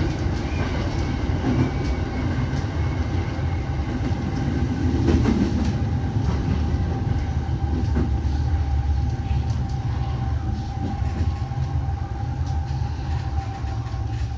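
Sobu Line local commuter train running on the rails, heard from inside the front car: a steady low rumble with scattered clicks of the wheels over rail joints and a steady thin hum above it.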